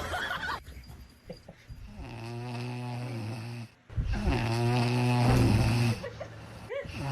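An animal snoring in long, drawn-out snores: one about two seconds in, another about four seconds in, and a third starting near the end.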